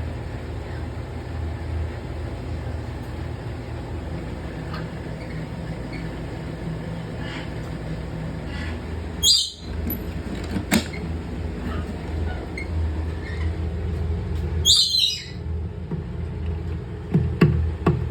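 Lory parrot giving two short, shrill squawks about five seconds apart, over a steady low hum.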